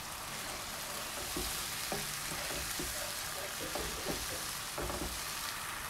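Tomato, ginger and garlic masala sizzling steadily in hot oil in a non-stick kadhai. A few light scrapes and taps of a slotted spatula stirring it can be heard.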